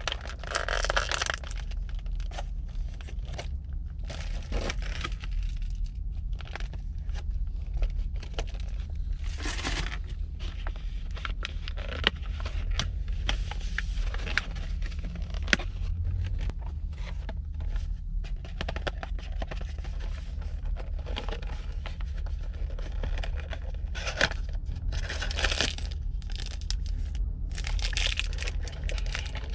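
Craft materials handled by hand: crinkly material rustling and tearing in several short bursts, with many small clicks and taps between them, over a steady low hum.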